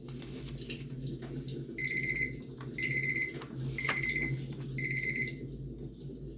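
Electronic timer alarm beeping: four bursts of rapid high beeps about a second apart, starting about two seconds in, marking the end of a 15-minute session. Underneath, a wood fire crackles with scattered pops.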